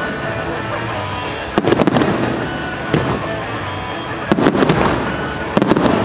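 Fireworks shells bursting in four groups of sharp bangs, most of them quick crackling runs of several, over background music.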